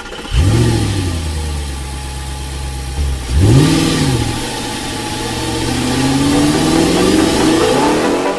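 Off-road vehicle engine catching and flaring just after it starts, then running steadily. It is blipped once about three and a half seconds in, then revs climb slowly toward the end.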